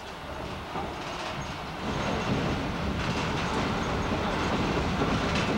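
Running noise of the moving Orient Express train, heard from inside its kitchen car: a steady noise that grows louder about two seconds in.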